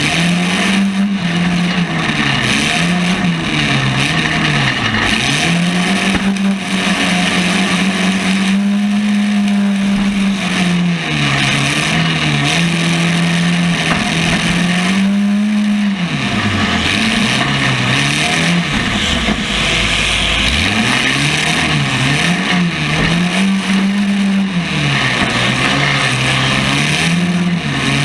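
Compact demolition-derby car engine revving up and down over and over, the pitch climbing and dropping every few seconds, with a steady rushing noise above it.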